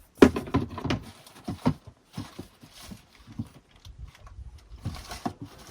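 Irregular knocks and clunks, several sharp ones in the first second and a half, then fainter scattered ones: someone moving about and handling gear.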